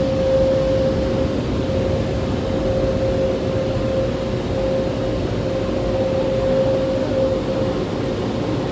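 Automatic car wash running, heard from inside the car's cabin: a steady rushing noise of water spray and wash machinery, with a constant mid-pitched tone running through it.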